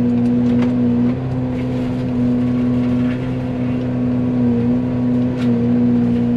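Excavator running a Fecon forestry mulcher head at full speed: a loud steady hum that briefly sags in pitch and level several times as the spinning head bites into brush and grass, with scattered faint ticks.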